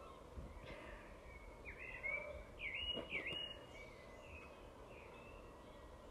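A small bird chirping a quick run of short, curved notes over a faint steady outdoor background hiss.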